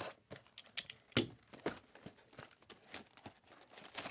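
Plastic wrapping on trading-card boxes or packs crinkling and tearing open, in a run of irregular crackles.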